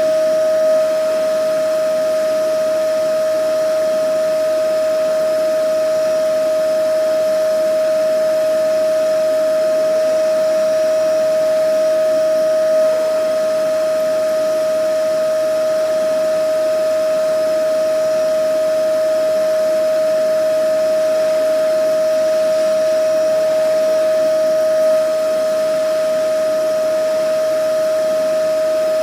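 Vacuum cleaner running steadily: a constant motor whine over the rush of its airflow, with a slight swell about every twelve seconds.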